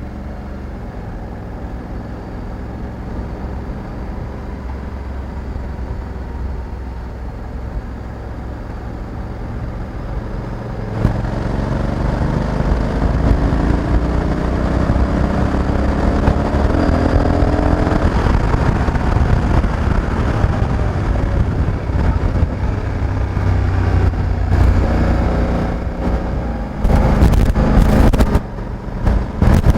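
Honda Africa Twin 1100's parallel-twin engine cruising steadily, then louder from about eleven seconds in as the bike accelerates, its pitch rising in steps as the dual-clutch transmission shifts up. Near the end, wind buffets the microphone in gusts.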